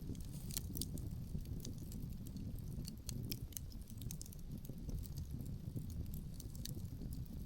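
Wood fire crackling, with frequent small sharp pops scattered irregularly over a steady low rumble.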